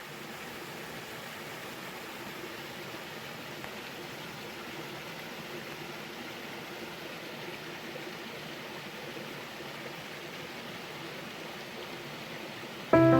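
Steady rushing of flowing water. Music with held notes comes in sharply just before the end and is louder than the water.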